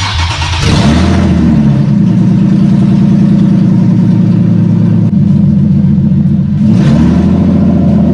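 Nissan 370Z's 3.7-litre V6 starting up with its catalytic converters removed, exhausting straight from the headers. It is very loud: it cranks and catches, the revs flare up and settle into a steady idle, and near the end the revs rise briefly once more.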